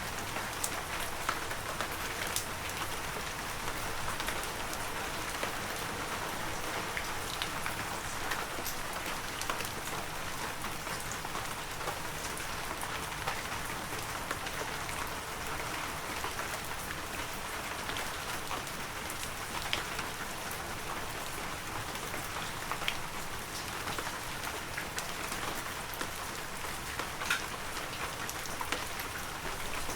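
Heavy rain falling steadily, an even hiss with many sharp individual drop ticks throughout.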